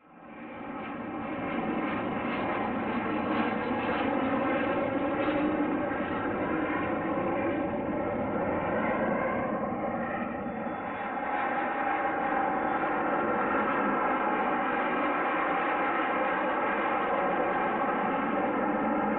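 Aircraft engine running, a steady drone made of many layered tones that comes in suddenly and holds level throughout.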